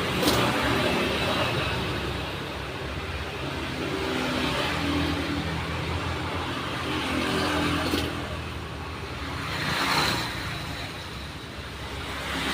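Road traffic: vehicle engines running steadily, with several passing vehicles swelling up and fading away.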